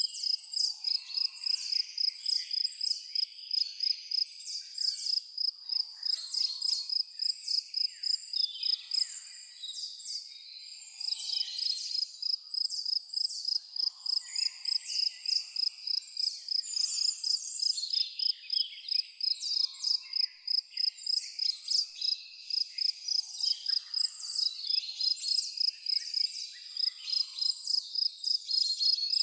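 An insect, cricket-like, chirping in a high, rapid, evenly pulsed trill that breaks off briefly about ten seconds in. Many small birds chirp and twitter over it.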